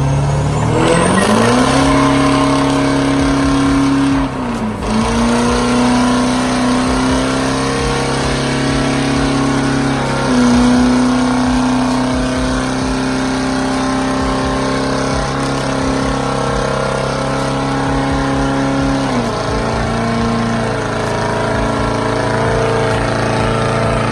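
Pickup truck engine revved up hard and held at high rpm during a burnout, with spinning-tire noise underneath. The revs sag briefly about four seconds in and again near the end, then climb back.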